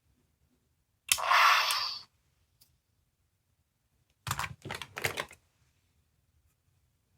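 Small sound-effect capsule toy: a sudden hissing noise about a second in that lasts about a second and fades, then a quick cluster of sharp plastic clicks a few seconds later.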